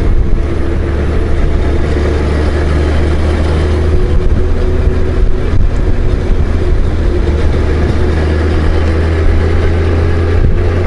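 Honda Gold Wing GL1500 motorcycle cruising at a steady speed: its flat-six engine runs evenly under a heavy rush of wind and road noise.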